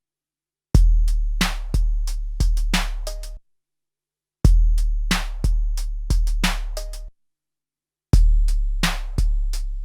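Drum pattern played back from a 12-bit SP-1200 sampler: a long, deep bass drum with sharp hits over it. The same phrase of about 2.7 seconds plays three times, each followed by about a second of silence.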